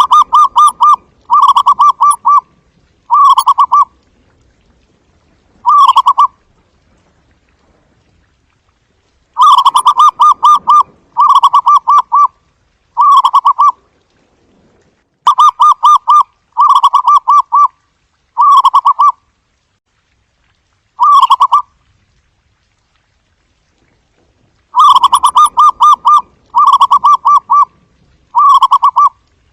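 Zebra dove calling: its soft, staccato cooing, each coo a quick run of rapid pulses. The coos come in bouts of three or four, with pauses of a few seconds between bouts.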